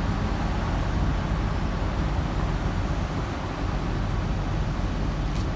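Heavy-equipment diesel engines running steadily in a low, even rumble.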